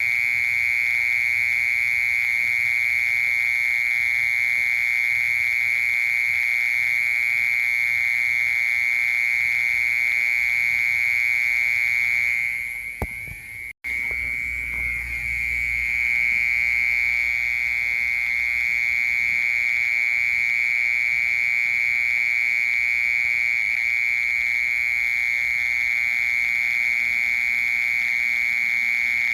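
A cricket singing a loud, continuous, steady high trill. About halfway through the song fades, breaks off for an instant with a short low rumble, then carries on unchanged.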